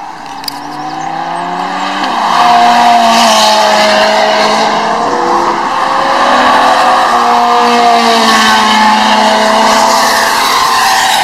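Several high-performance car engines driving past on a racing circuit, an Aston Martin Vantage among them passing close. They get loud about two seconds in and stay loud, the engine pitch rising and falling as the cars accelerate and go by.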